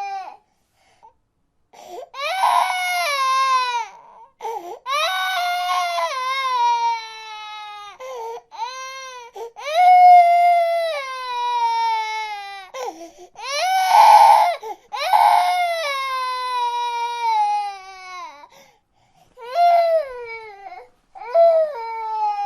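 A baby crying in a string of long wails, each one falling in pitch as it trails off, with short breaks for breath between them.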